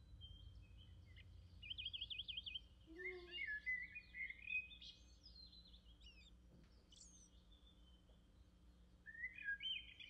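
Faint chirping of a small bird: quick high chirps with a rapid warbling trill about two seconds in, more short calls after it and again near the end, over a low steady hum.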